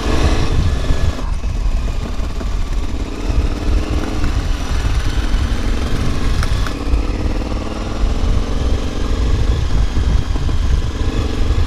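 KTM 950 Adventure's V-twin engine running at low revs from on board the moving motorcycle, its note rising and falling gently with the throttle, over a steady low wind rumble on the microphone.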